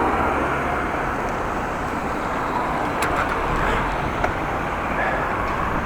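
Strong wind buffeting the microphone while cycling: a steady rumbling wind noise, with a couple of faint ticks about three and four seconds in.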